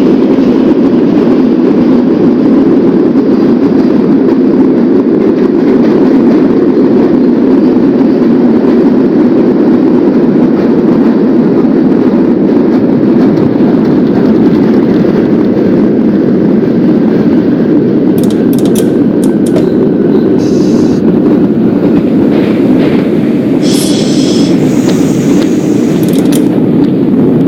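New York City subway train running along the track with a loud, steady rumble. From about two-thirds of the way in there are a few sharp clicks, and near the end a brief high-pitched squeal.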